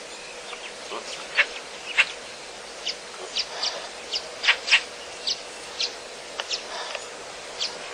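Birds chirping: about a dozen short, sharp, high calls at uneven intervals over a faint steady background hiss.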